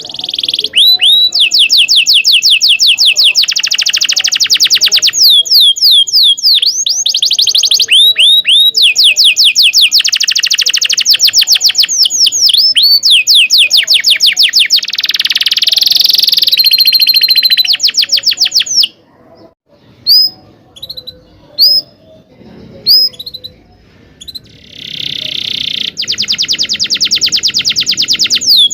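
Domestic canary in full song: long, loud runs of rapid trilled rolls and repeated high chirps. About two-thirds through, the song breaks into a few scattered single chirps for several seconds, then a fast trill starts again.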